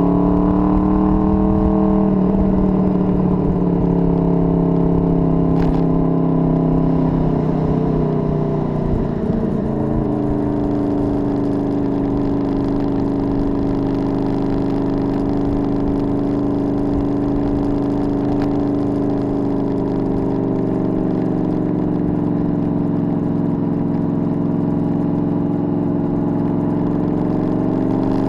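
Honda VFR800's V4 engine running steadily at road speed, with wind rumble on the microphone. Its pitch drops and picks up again about nine seconds in, and rises near the end.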